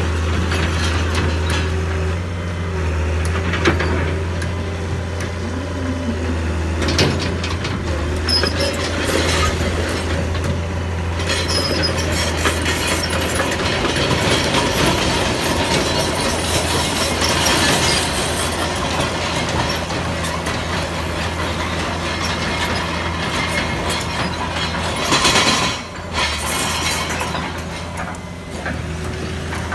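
Diesel engine of heavy construction equipment running steadily at a low, even drone, with intermittent metallic clanks and creaks from the machine moving, and a louder clattering spell near the end.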